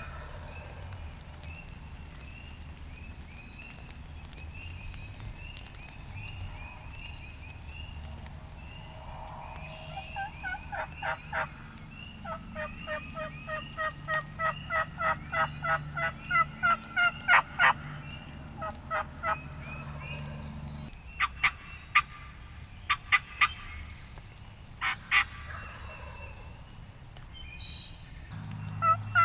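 Turkey calling: a long run of evenly spaced notes, about three a second, growing louder over several seconds, then a few shorter bursts of notes. Faint small-bird chirping comes before it.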